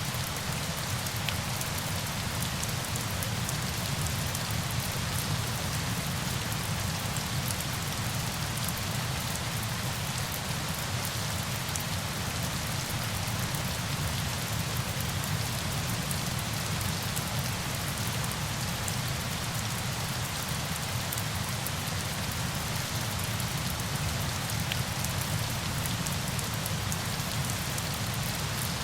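Steady, unbroken noise of falling water, with a faint patter of separate drops.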